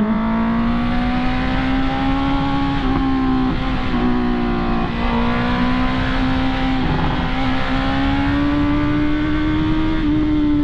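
Honda CB650R's inline-four engine running at steady throttle, its pitch rising and easing gently with a few slight dips, over a steady rush of wind on the microphone.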